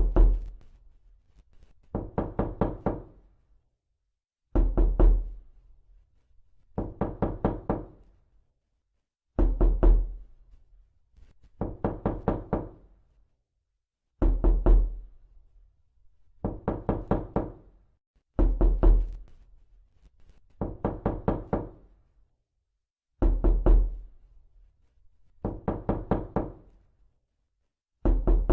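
Knocking in quick bursts of about five or six raps, repeating every two seconds or so in a steady pattern. Every other burst is louder, with a deeper thud.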